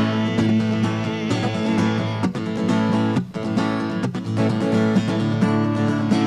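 Acoustic guitar played live: an instrumental passage of strummed chords, briefly dipping twice near the middle.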